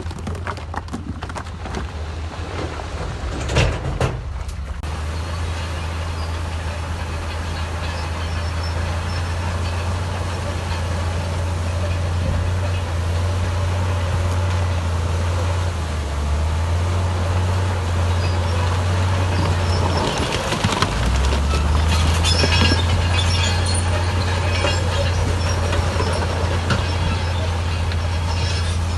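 Heavy earthmoving machine's diesel engine running steadily under load, with a single knock about four seconds in and a brief dip in the engine note about two-thirds through, followed by metallic squeaks and clanks.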